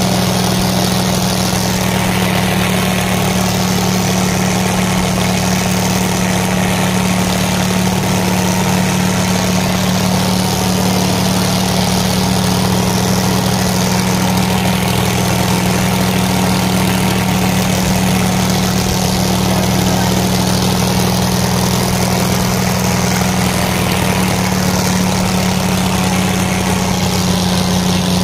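Tractor diesel engine running loud and steady, with a slight drop in pitch near the end.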